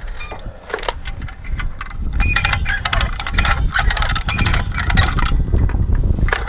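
Irregular metallic clinks and rattles of tools and lifting hardware being handled while an engine is rigged to a hoist, growing busier about two seconds in, over a low rumble.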